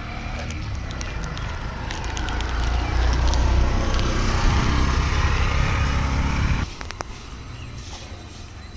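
A motor vehicle passing close by, a rumble with road noise that swells over a few seconds and then cuts off suddenly about two-thirds of the way in, leaving quieter street background with a few light clicks.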